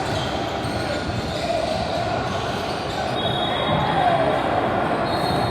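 Basketball game in an echoing gym: a ball bouncing on the court over a steady background of voices and court noise.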